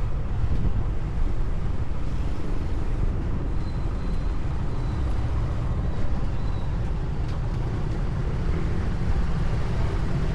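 Steady low rumble of wind and road noise from a moving motorcycle, with wind buffeting the microphone.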